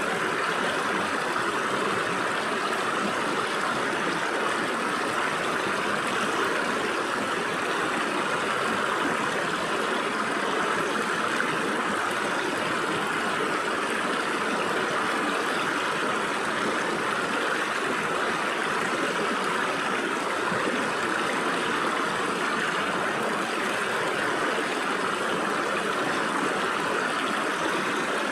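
Water in a rocky stream running through the gaps between rocks, a steady, unbroken rushing.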